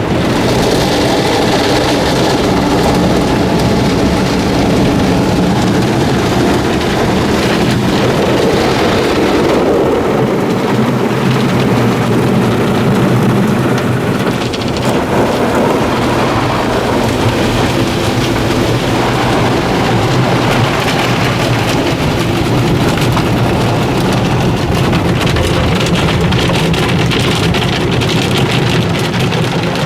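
D&S Odyssey soft-touch automatic car wash working over the car: water spray and spinning cloth brushes beating on the body in a loud, steady wash, with a machine hum beneath.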